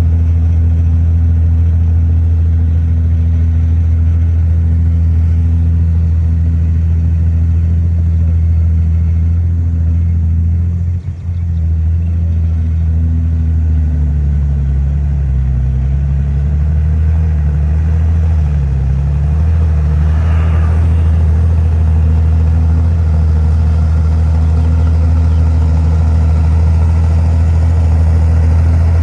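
Heavy diesel engine of earthmoving machinery running steadily, its pitch wavering for a few seconds in the middle, with a brief dip in level about eleven seconds in.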